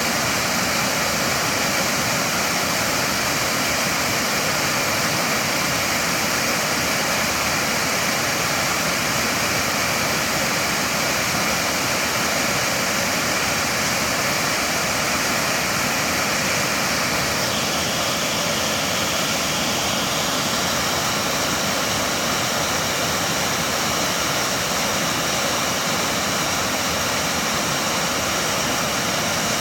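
Waterfall: falling water rushing as a loud, steady, even noise.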